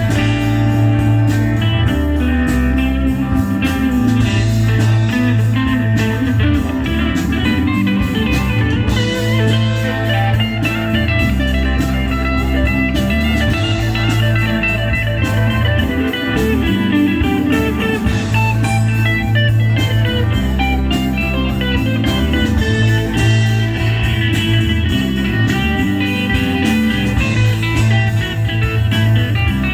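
Live band playing, with guitar to the fore over strong low notes and a steady beat.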